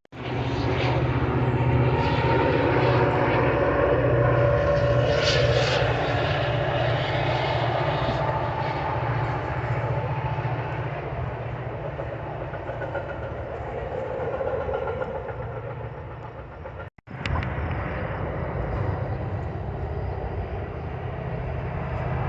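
Train passing close by: a diesel locomotive's engine hum steady underneath, with the rolling noise of wheels on rails above it. The sound breaks off abruptly about three quarters of the way through and picks up again at once.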